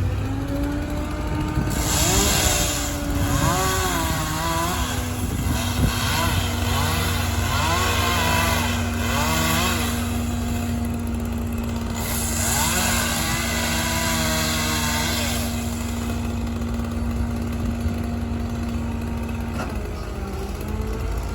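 Tree-crew machinery: an engine running steadily under several bursts of a high, rasping power tool, each lasting a few seconds, about two, five, eight and thirteen seconds in.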